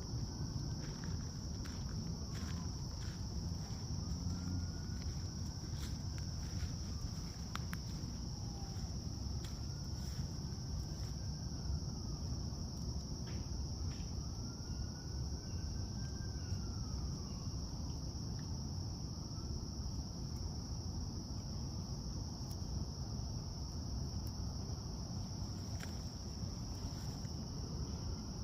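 Steady, unbroken high-pitched chorus of insects, with a low rumble underneath and scattered faint clicks.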